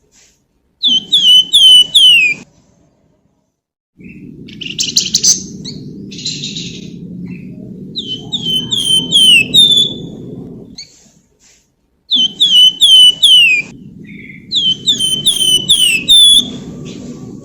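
Flamboyan songbird singing in repeated bursts of quick, falling whistled notes, four or five to a phrase, with a buzzy rattled phrase between them. A low rumble runs under parts of the song.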